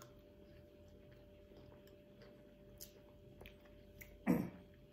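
Faint chewing and mouth clicks from people eating pieces of sun-dried salted lemon, with a few soft ticks. A short burst of voice comes about four seconds in.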